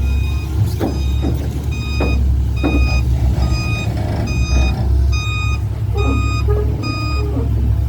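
A heavy diesel vehicle's reversing alarm beeping evenly, a little under one high beep a second, over the low rumble of its running engine as it backs up.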